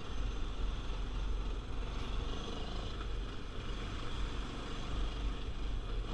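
ATV engine running while the quad is ridden over wet ground, a steady low rumble.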